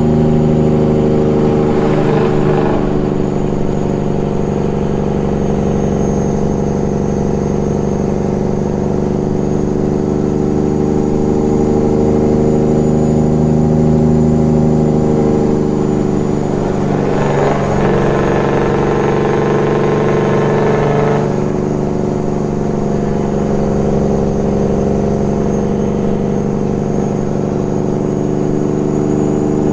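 Peterbilt 389 glider's diesel engine running steadily under way, with a brief rushing noise twice, about two seconds in and again for a few seconds past the middle.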